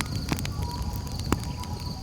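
Campfire crackling: sharp pops over a low rumble of burning, the loudest pop about a second and a third in. A steady high trill of night insects runs underneath.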